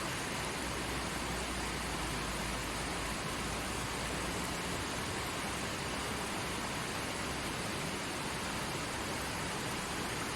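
Small forest stream running over rocks: a steady, even rush of water.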